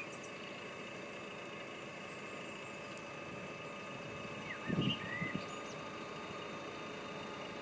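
Canal hotel boat's engine running steadily, with a few short bird-like chirps and a brief louder low sound about five seconds in.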